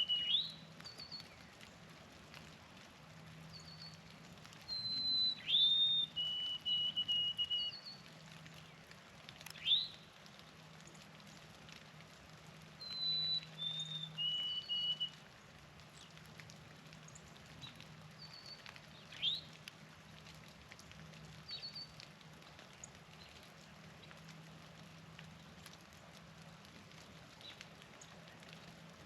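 White-throated sparrow singing its clear whistled song three times: a couple of higher pure notes stepping down to a longer, lower note broken into a quick stutter. Short sharp call notes and small high chips from other birds come in between.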